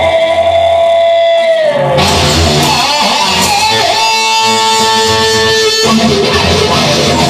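Rock song instrumental break: an electric guitar plays long sustained lead notes over the band, one bending down in pitch about two seconds in, with another held note a couple of seconds later.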